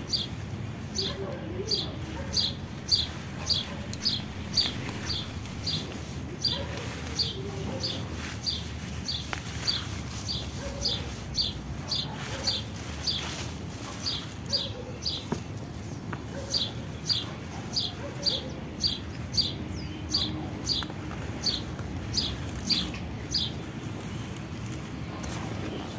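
A bird calling a long, even series of short high notes, each sliding down, about two a second, with a few softer low calls now and then.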